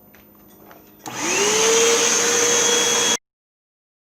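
Hoover vacuum cleaner switched on: about a second in its motor spins up with a rising whine, then runs steadily and loudly before the sound cuts off abruptly.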